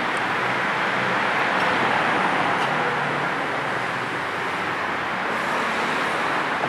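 Steady car-ride road noise, tyres and engine running at cruising speed, mixed with an even hiss of white noise.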